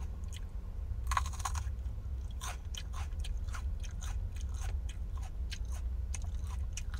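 Close-up chewing of a raw sweet mini pepper: many small crunches and clicks from the mouth, with a louder crunch about a second in.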